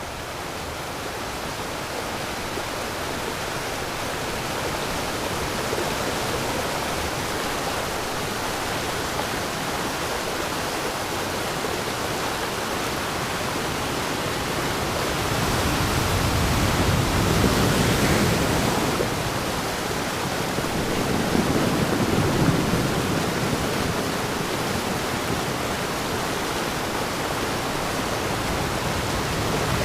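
Waterfall rushing in a steady roar of falling water, swelling louder and deeper about halfway through and again a few seconds later.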